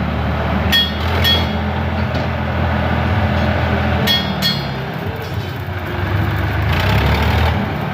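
Tractor engine running steadily, with four short metallic clinks.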